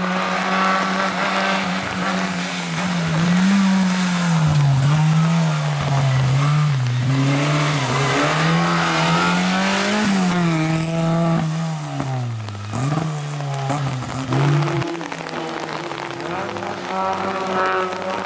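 Autobianchi A112 Abarth rally car's four-cylinder engine revving hard, its pitch climbing and falling again and again as it is driven through the gears. The pitch drops sharply about two-thirds of the way through as the car passes.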